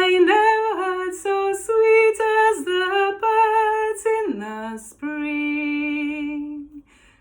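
A woman singing the bass line of a choral folk song alone and unaccompanied. She sings a run of short notes, dips to a low note about four seconds in, then holds one long, steady low note that ends near the close.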